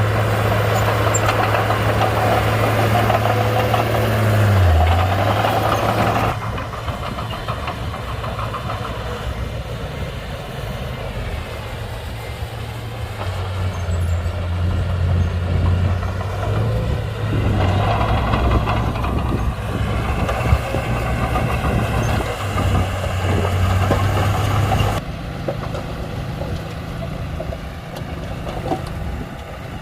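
Komatsu D31-P crawler bulldozer's diesel engine running, its pitch dipping briefly about five seconds in. The sound drops suddenly in level about six seconds in and again near the end.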